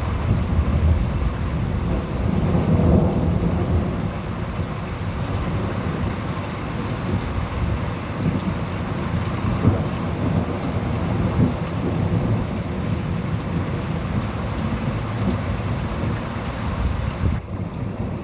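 Thunderstorm: steady heavy rain with rolling thunder rumbling underneath, swelling about three seconds in and flaring briefly twice around the middle.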